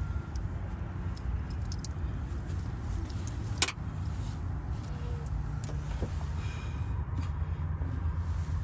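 Light metallic clinks and jingles of a metal wristwatch being unclasped and taken off, with one sharp click about three and a half seconds in, over a steady low rumble.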